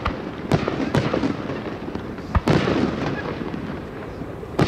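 Aerial fireworks shells bursting one after another: about five sharp bangs with crackling and a trailing rumble between them. The deepest, loudest bang comes about two and a half seconds in.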